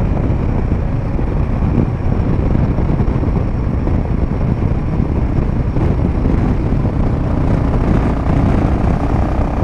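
Royal Enfield Himalayan 450's single-cylinder engine running steadily at road speed through an aftermarket Power Rage exhaust with its dB killer in, mixed with wind rush on the microphone.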